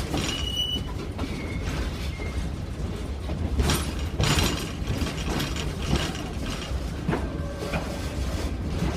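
Passenger train running along the track, heard from aboard: a steady low rumble with scattered clacks and knocks from the wheels on the rails, and a brief high squeal near the start.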